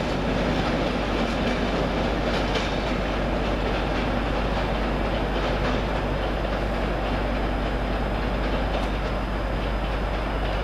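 Freight train wagons rolling past on the rails with a steady rumble, their wheels clicking over rail joints a few times in the first half.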